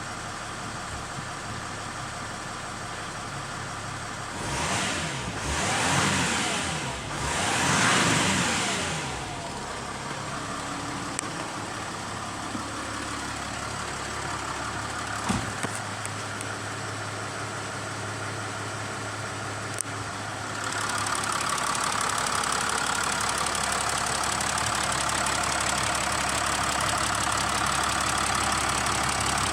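Nissan Navara engine idling steadily, blipped up in revs three times between about five and nine seconds in, each time falling back to idle. About twenty seconds in the running sound becomes louder and brighter and stays that way.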